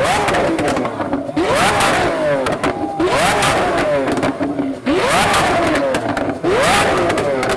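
Lamborghini Aventador S's V12 through a Frequency Intelligent (Fi) exhaust, revved hard five times, each rev rising quickly in pitch and falling back, with crackles on the overrun as it shoots flames.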